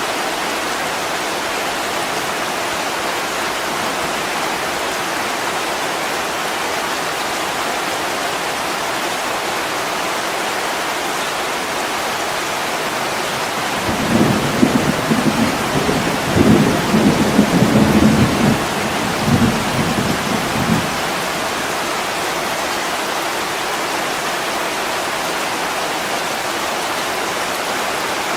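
Heavy rain hissing steadily on a window, with a low roll of thunder rumbling for about seven seconds around the middle.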